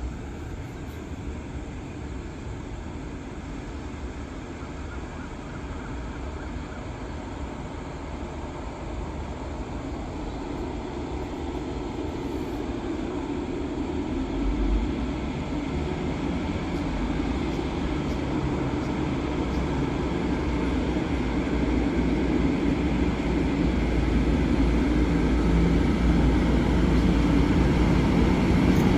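Sprinter diesel multiple unit approaching, its engine and wheel rumble growing steadily louder.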